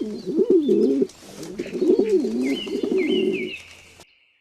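Pigeon cooing: two long, rolling coo phrases that swing up and down in pitch. A few short high chirps from another small bird come near the end, and the sound cuts off suddenly shortly before the end.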